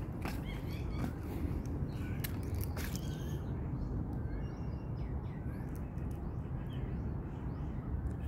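Birds calling in short chirps, mostly in the first three seconds, over a steady low rumble. A few light clicks come in the first three seconds.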